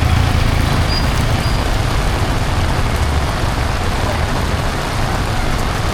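Heavy rain falling steadily on a street, with the low rumble of passing traffic that fades about three seconds in.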